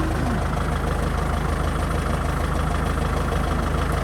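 Kubota M6040 SU tractor's diesel engine idling steadily.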